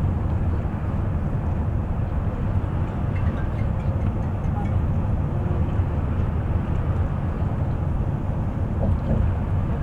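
Steady low rumble of a bus driving at speed, engine and tyre noise heard from inside the cabin.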